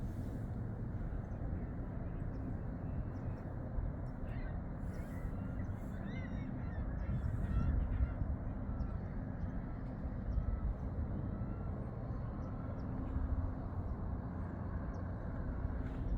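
Birds calling, with a cluster of short calls about four to eight seconds in and a few fainter ones later, over a steady low rumble.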